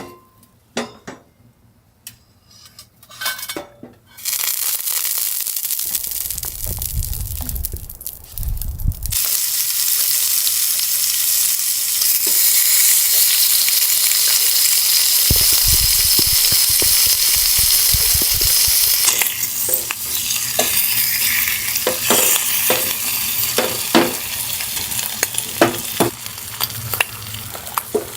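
A few light clinks of cookware, then from about four seconds in food sizzling loudly and steadily in a hot pan. Clicks and scrapes of stirring come near the end, and a low rumble comes twice.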